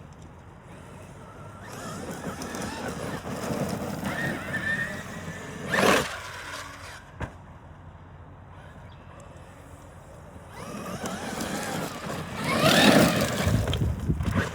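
Traxxas X-Maxx electric RC monster truck's brushless motor whining as it speeds up and slows, in two runs. A sharp bang comes about six seconds in, as the first run ends.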